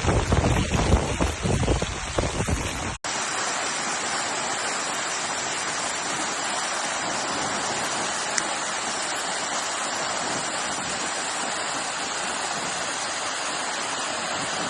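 Gusty wind buffeting the microphone over falling rain, then after a sudden cut about three seconds in, the steady, even hiss of rain falling.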